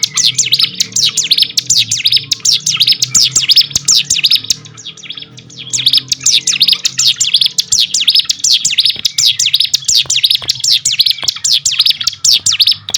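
Ciblek gunung (prinia) song from a bird-training recording: a fast, loud string of sharp falling chirps, about seven or eight a second. It pauses briefly about four and a half seconds in, then carries on.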